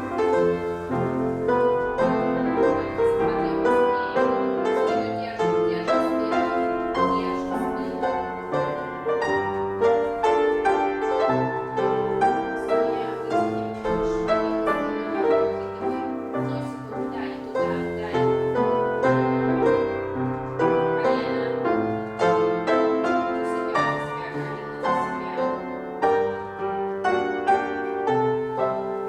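Classical piano music playing continuously, with a dense run of notes.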